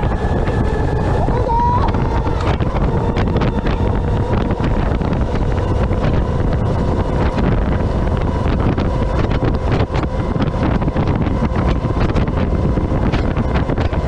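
Wind buffeting the onboard microphone of an electric Baja off-road buggy driving over rough dirt, with a steady low rumble, many short knocks and rattles from the chassis, and a faint steady whine.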